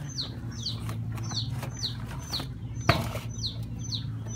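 A bird calling over and over, a short falling chirp about twice a second, over a steady low hum. One sharp knock about three seconds in.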